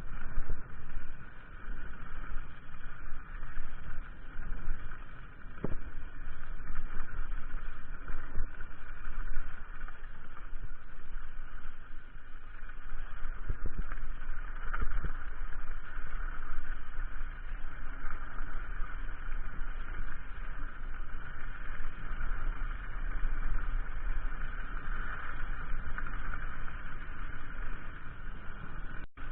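Steady rumble and wind noise from a mountain bike being ridden along a trail, with a few short knocks as it goes over bumps.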